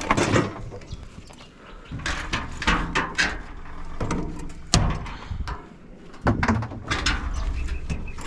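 Clunks, knocks and scraping as the parts of a washing machine being stripped for scrap are handled and moved, in irregular bursts.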